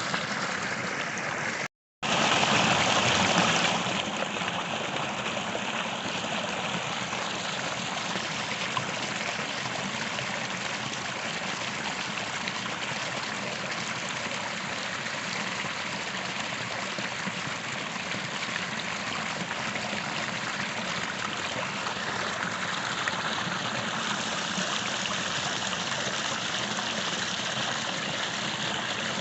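Creek water running and trickling over rocks: a steady rushing. About two seconds in, the sound drops out for a split second, then comes back louder for a couple of seconds before settling to its steady level.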